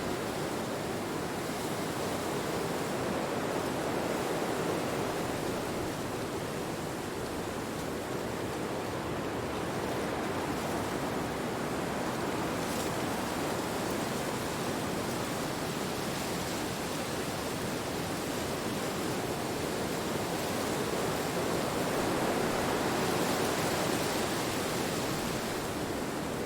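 Steady rushing wind with no other events, swelling and easing slowly, loudest a little after 20 seconds in.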